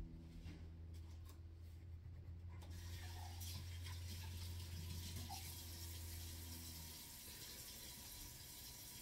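Faint rubbing hiss, starting about three seconds in, over a low steady hum that stops about seven seconds in.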